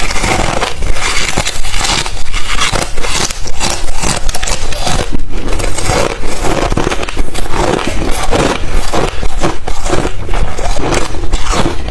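Crushed, refrozen ice chips being bitten and chewed: dense, rapid crunching and cracking that goes on without a break.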